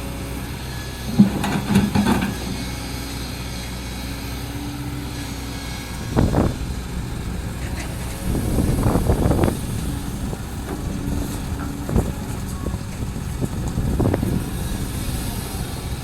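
Diesel engine of a heavy earthmoving machine running steadily, rising in several louder surges as it works, with one sharp knock about twelve seconds in.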